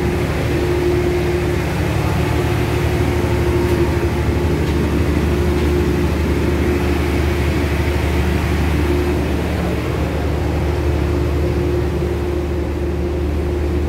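Steady running noise of a passenger train heard from inside the carriage: a low rumble with a constant hum over it.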